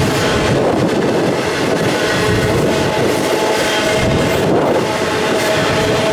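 Freight train cars rolling past: a steady, loud rumble and rattle of wheels on the rails, with faint steady tones over it.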